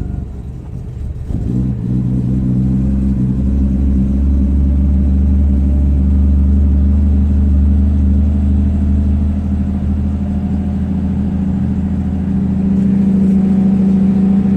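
Car engine idling just after a cold start, a steady low, even running note. It picks up and gets louder over the first couple of seconds, then holds a steady idle.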